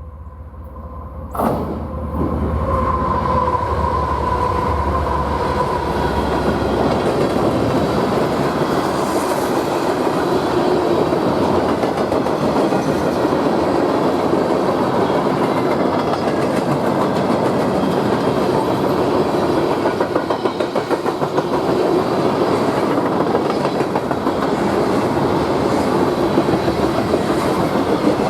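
A train passing close by on the rails. A sharp bang comes about a second and a half in, then steady loud wheel-on-rail noise with rapid clacking runs on as the cars go by.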